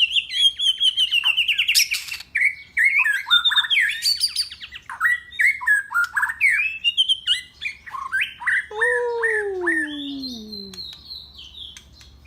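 Pet bird calling with a rapid, varied run of chirps, whistles and squawks, and a long downward-sliding call about nine seconds in.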